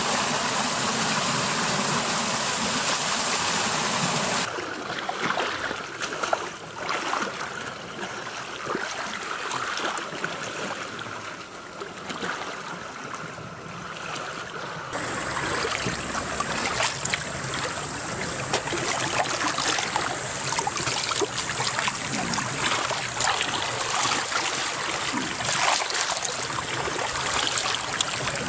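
Running and sloshing water, a steady rush with scattered small splashes, as trainees crawl through a muddy water pit; the sound changes abruptly twice, about four and fifteen seconds in, and a thin high whine runs through the last part.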